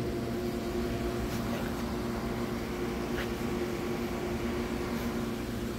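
Amtrak Northeast Regional train standing at the platform, its onboard equipment giving a steady, even hum over a low drone, with a few faint clicks.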